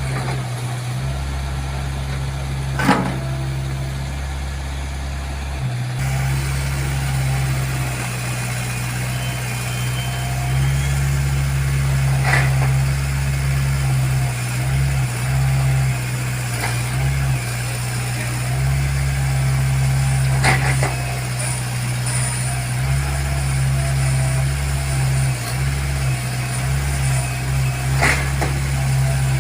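Backhoe's diesel engine running steadily while it works to climb onto a truck bed without a ramp, with four sharp metallic clanks spread through.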